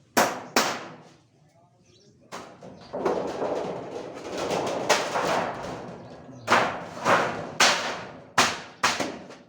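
A series of sharp knocks: two close together at the start and five in quick succession in the second half. Between them runs a few seconds of rough, even noise.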